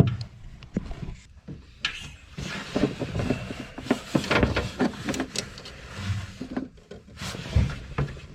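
Handling noise from a homemade wire jumper for a fuel-pump inertia-switch bypass being worked on by hand: irregular clicks, knocks and rustles.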